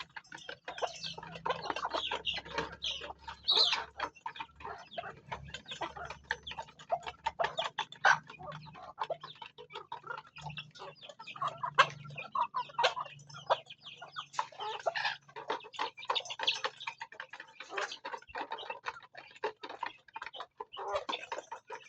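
Chickens clucking while pecking at feed: many quick, irregular beak taps throughout, with short calls in between.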